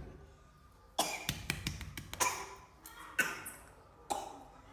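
A person coughing about four times, each cough sudden and noisy, spaced about a second apart.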